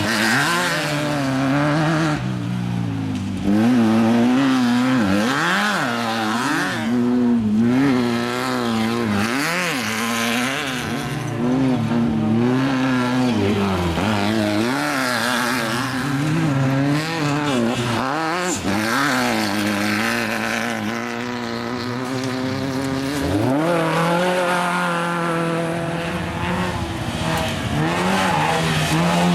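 Off-road desert race vehicle's engine running hard, its revs swinging up and down about once a second as the throttle comes on and off over the rough course, with a rising rev near the end as it accelerates.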